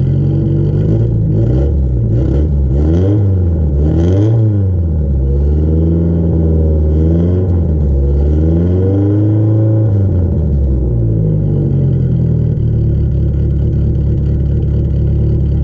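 1973 Fiat Spider's 1608 cc four-cylinder engine, exhaling through a tubular header and turbo-tube muffler. The throttle is blipped several times in quick succession in the first few seconds. It is then revved up and down more slowly twice, and settles to a steady idle near the end.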